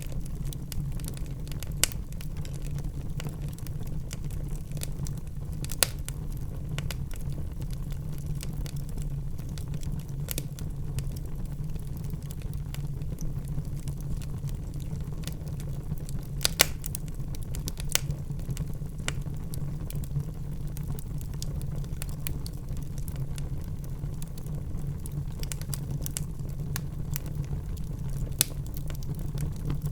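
Wood burning in a fireplace: a steady low rumble of flame under scattered sharp crackles and pops, a handful of them louder.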